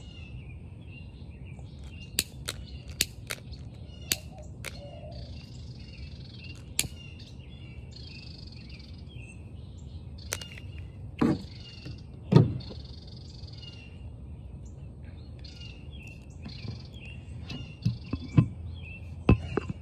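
Birds chirping and calling continuously over a low steady rumble, with several sharp clicks in the first seven seconds and two louder thumps around the middle.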